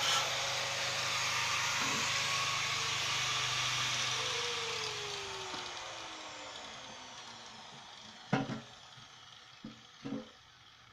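Handheld electric power tool running with a steady hiss, then switched off about four seconds in and spinning down with a falling whine until it stops. Afterwards come a few sharp knocks.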